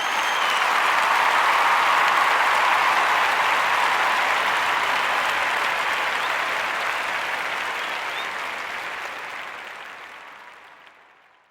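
A crowd applauding, with a brief whistle near the start, fading out over the last few seconds.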